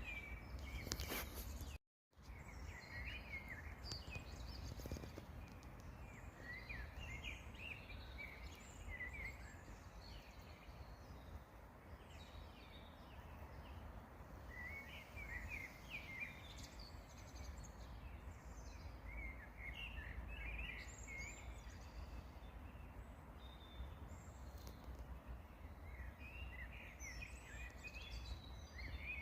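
Small songbirds chirping and singing in short scattered phrases over a steady low rumble of outdoor background noise. The sound cuts out completely for a moment about two seconds in.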